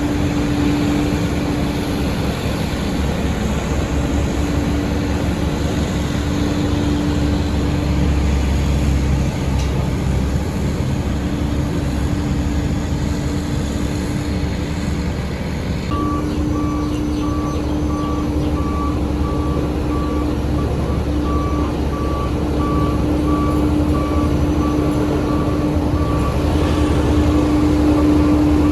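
Diesel engine of heavy road-construction equipment running steadily, and from about halfway through a reverse alarm beeping evenly as a machine backs up.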